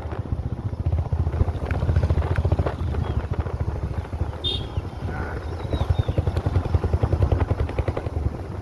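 Motorcycle engine running steadily under way, with a rapid, even pulse. A brief high chirp sounds about halfway through.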